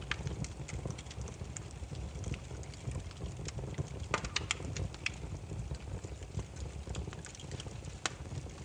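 Wood fire burning, with irregular sharp crackles and pops from the logs over a steady low rumble of the flames; a quick cluster of pops comes about four seconds in.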